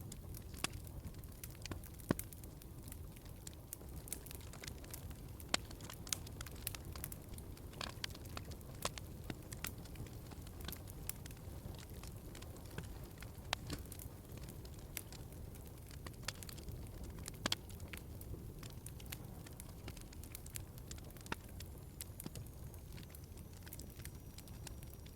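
Wood fire in a fireplace crackling, with irregular sharp pops and snaps over a steady low rumble of the flames; a few pops stand out louder.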